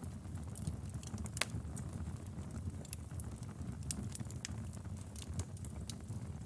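Wood fire burning in a fireplace: a steady low rumble of the flames with irregular sharp crackles and pops, one louder pop about a second and a half in.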